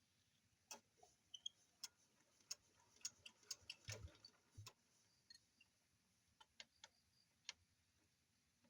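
Near silence with scattered faint sharp clicks and light taps, bunched together about halfway through with one soft low thud among them.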